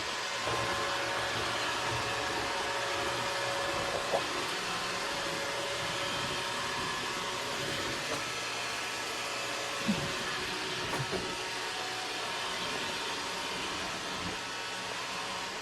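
iRobot Roomba robot vacuum running: a steady motor and suction hiss with a faint whine, and a few light knocks along the way.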